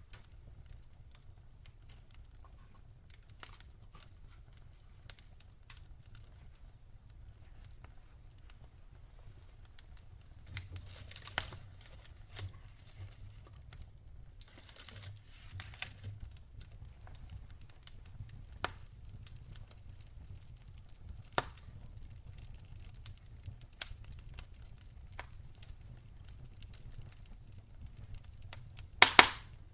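Wood campfire crackling, with scattered small snaps and pops over a low steady rumble. Two brief hissing flare-ups come about a third and half of the way through, and one loud pop lands near the end.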